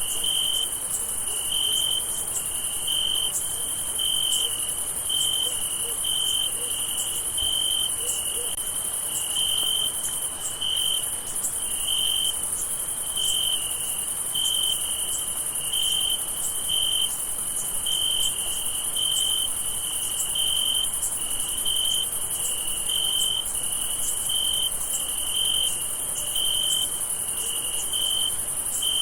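Night chorus of crickets: a steady high-pitched insect trill runs continuously, with a lower cricket chirping in an even rhythm over it, about one and a half chirps a second.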